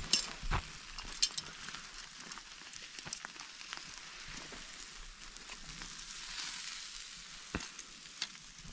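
Beef tomahawk steak sizzling as it sears over open campfire flames: a steady hiss of fat cooking, dotted with sharp pops and crackles, with a low knock or two about half a second in.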